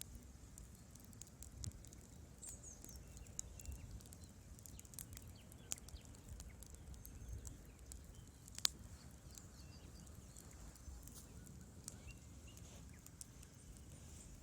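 Wood fire crackling in a fireplace: irregular small pops and snaps over a low, steady rumble of the flames, with one sharper, louder pop a little past the middle.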